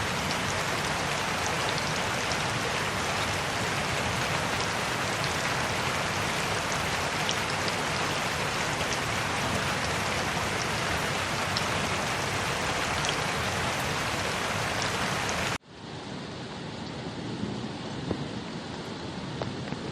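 Steady, dense rain falling on a surface. About three-quarters of the way through it cuts off abruptly and gives way to a quieter, thinner rain with scattered individual drops tapping.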